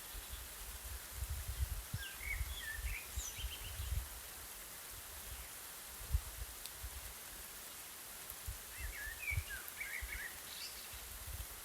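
Steady hiss of light rain over a field, with a gusty low rumble of breeze. A songbird sings two short phrases of quick chirping, sweeping notes, about two seconds in and again about nine seconds in.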